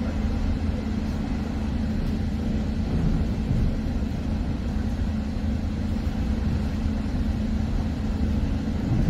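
Interior noise of a Bombardier Bilevel passenger car running at about 90 mph: a steady rumble of wheels on rail and rushing air, with a constant low hum underneath.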